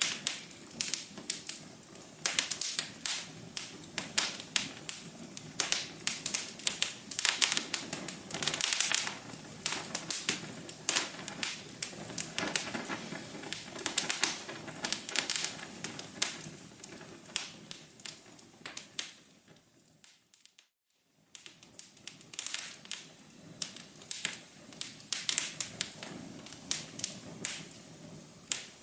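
Wood fire crackling in a fireplace: a dense, irregular run of sharp pops and snaps over a low steady rumble. About two-thirds of the way through it fades out for about a second, then starts again.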